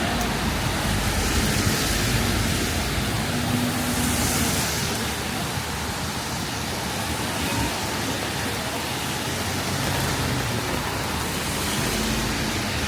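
Rainy city street ambience: a steady hiss of rain and wet-road traffic, swelling briefly a few times.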